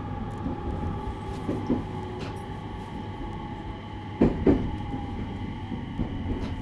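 Inside a JR East 701 series electric train on the move: a steady running rumble with a faint motor hum, and wheels knocking over rail joints in quick pairs, loudest about four seconds in.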